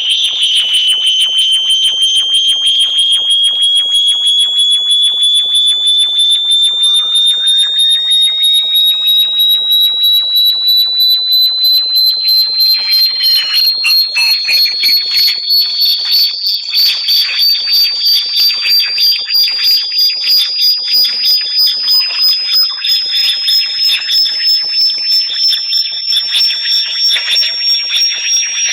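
Synthesized high-pitched electronic tone sold as a bat-repellent sound. It rises slowly and steadily in pitch, with fainter gliding tones above it, and it pulses rapidly; in the second half the pulsing settles into an even throb of a few beats a second.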